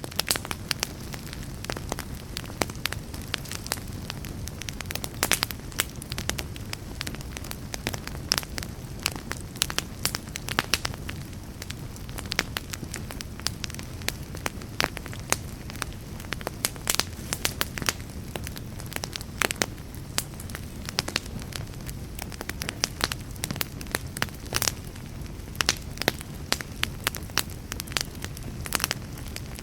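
Fire crackling: irregular sharp pops and snaps, several a second, over a steady low rush of burning.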